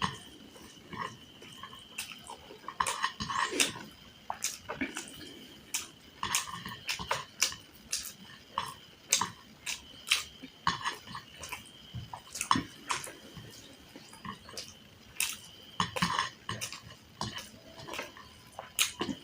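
Close-miked eating: a person chewing and lip-smacking through chicken curry and side dishes, in quick irregular wet clicks and smacks, with now and then a light clink of a dish.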